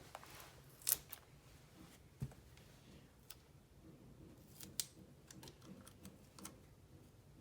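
Scissors cutting a piece of sticky tape, with paper and tape being handled: a few scattered short snips and clicks, the sharpest about a second in.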